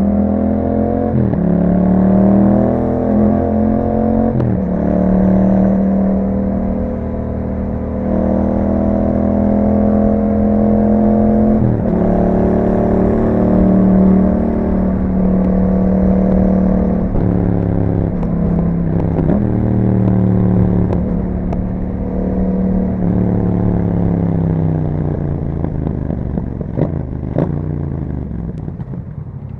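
2021 Yamaha MT-07's parallel-twin engine through an aftermarket Akrapovič exhaust, riding on the road. It runs at a steady note, with brief breaks and pitch changes at a few gear changes. Near the end the engine note falls away as the throttle closes.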